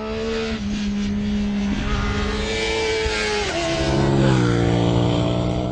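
Sportbike engine running at high revs on a racetrack. Its pitch steps up and down several times over a steady rush of wind and tyre noise.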